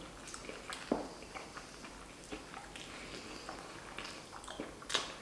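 Eating sounds close to the microphone: soft, wet chewing and mouth clicks as a flatbread wrap and pasta are eaten, with sharper smacks about a second in and near the end.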